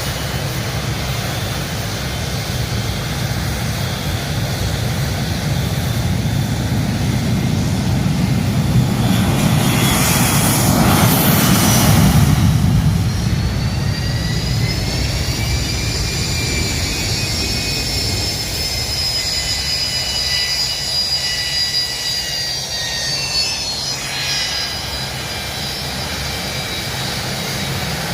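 Fixed-wing aircraft flying past: its engine noise builds to its loudest about eleven seconds in, then a high engine whine slowly falls in pitch as it moves away.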